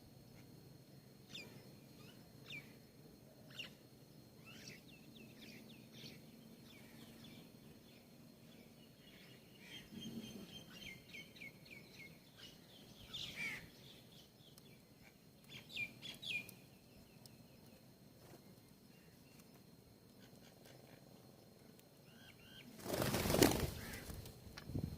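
Small birds chirping in short, high calls through the first two-thirds, then a sudden burst of wing flapping near the end, about a second long and the loudest sound.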